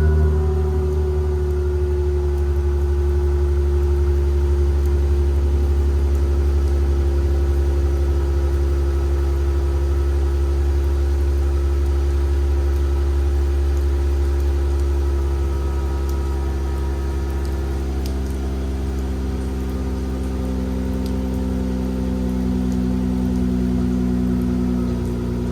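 2011 Dodge Charger SXT's V6 engine idling fast just after a cold start, heard through a cat-delete exhaust with upgraded mufflers. A steady idle that eases down somewhat about fifteen seconds in as the cold-start idle settles.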